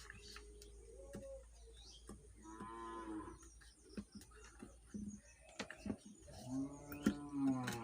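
A cow mooing twice, each call about a second long, the first around three seconds in and the second near the end, over scattered light clicks.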